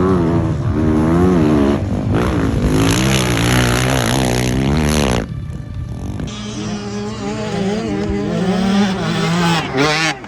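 Motocross bike engines revving up and down hard, the pitch climbing and falling again and again. About five seconds in the hissy top end drops away and the revving carries on.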